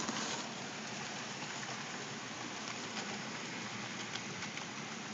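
HO scale model train running on the layout track: a steady whirring, rolling noise with a few faint clicks.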